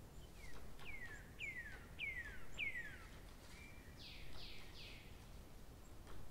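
A bird singing: a run of five downward-sliding whistles, then a short steady note and three higher, quicker downward-sliding notes.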